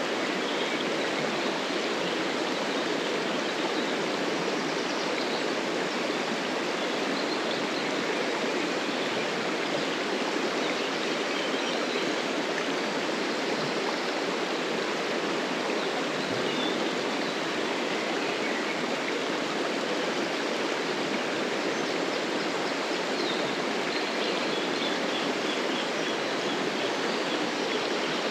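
Steady rushing of a flowing stream, unchanging throughout.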